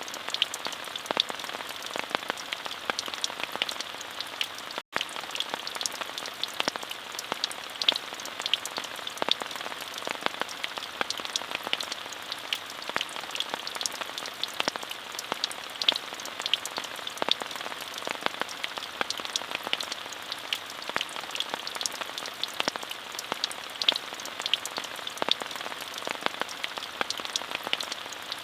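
Steady rain falling, an even hiss dotted with many individual drop ticks. The sound cuts out for an instant about five seconds in.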